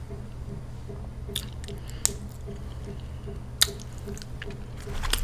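Close-miked eating: soft, wet chewing and squishing mouth sounds, with three sharper clicks spread through it.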